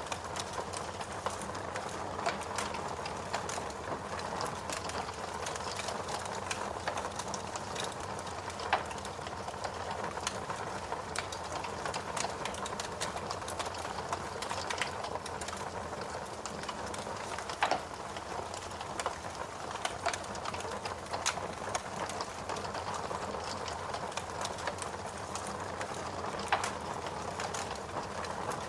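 Steady rain hiss mixed with the crackling of burning wood in a fireplace, with scattered sharp pops, a few of them louder.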